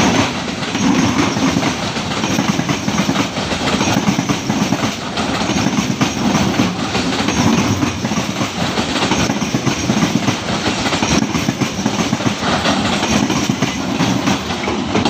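An Indian Railways EMU local train running past, its wheels clattering over the rail joints in a loud, steady rush of noise.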